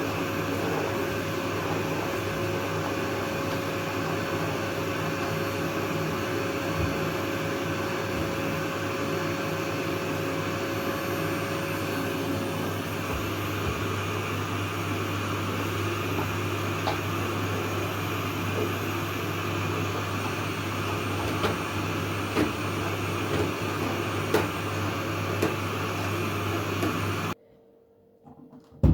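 A household appliance running with a steady motor hum, cutting off suddenly about a second and a half before the end.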